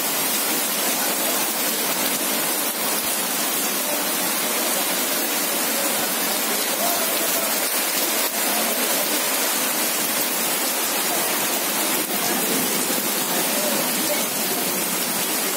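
Heavy rain pouring onto wet paving, a loud, steady hiss of drops splashing into the standing water.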